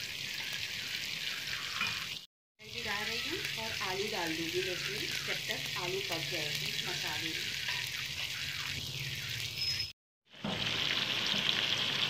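Spice masala sizzling as it fries in oil in a wok, with a faint voice in the middle. The sound cuts out to silence twice, briefly.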